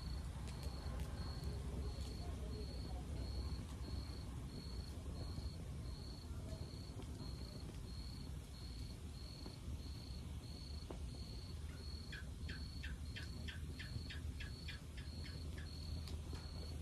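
Low rumble of a log fire with a few faint crackles, under a high, even chirping that pulses about one and a half times a second, like a cricket. About three quarters of the way in, a short run of about a dozen quick ticks joins it.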